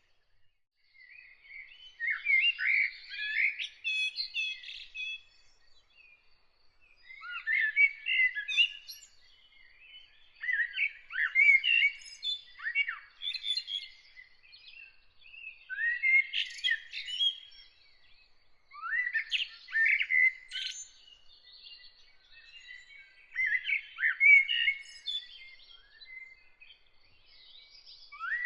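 A songbird singing in separate warbled phrases, about six of them, each two to three seconds long with short pauses between. A faint, rapidly repeated high note runs steadily in the background.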